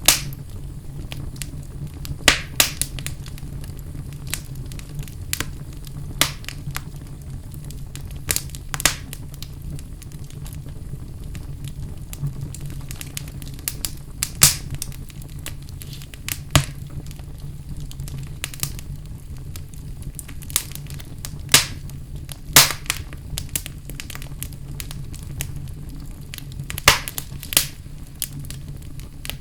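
Wood fire burning in a fireplace: a steady low rumble from the flames with irregular sharp crackles and pops, about ten of them loud, some in quick pairs.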